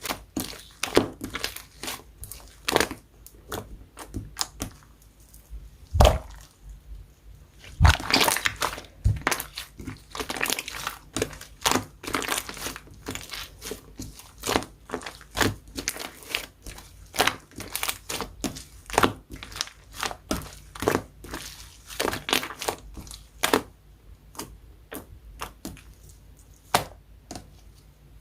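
Slime being squeezed, pressed and stretched by hand, giving dense, irregular crackling and popping clicks, with a few louder pops about six and eight seconds in.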